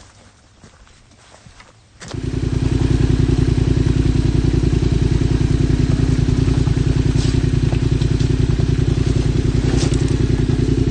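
Yamaha Ténéré 700 motorcycle's parallel-twin engine starting about two seconds in, after a few faint clicks, then idling steadily with an even, rapid pulse.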